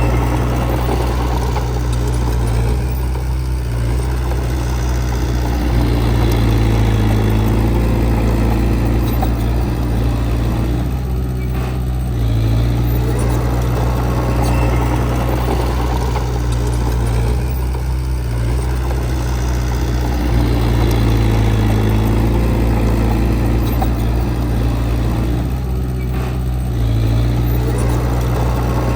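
Heavy earthmoving machine's diesel engine running steadily and loud, its note shifting every several seconds as it works.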